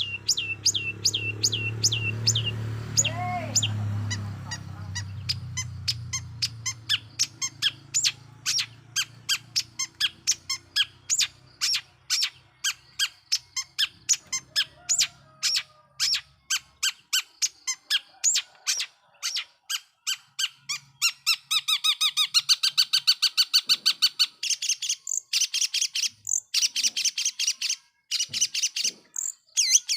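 Long-tailed shrike (cendet) calling in a long run of sharp, repeated notes, about two a second, that quicken into a fast chatter after about twenty seconds. A low hum sits under the first few seconds.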